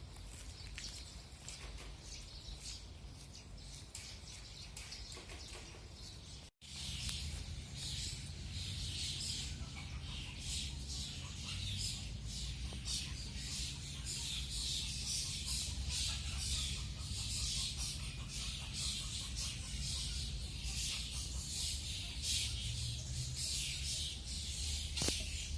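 Outdoor birdsong chorus of many rapid, high chirps and tweets, thicker and louder after a short break about six seconds in, over a steady low rumble.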